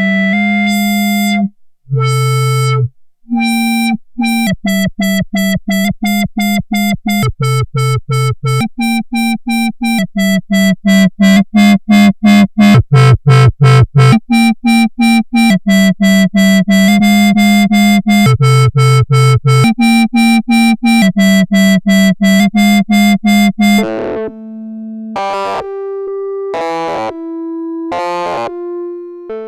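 Arturia Brute-series analog synthesizer playing a step-sequenced pattern of short, repeated notes rich in overtones. The notes run faster and louder from about ten seconds in. Near the end the pattern thins to a few sparser, higher notes.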